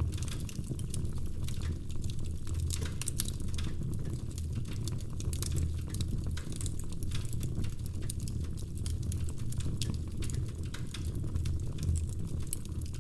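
Wood fire crackling in a fireplace: a dense run of irregular small pops and snaps over a steady low rumble.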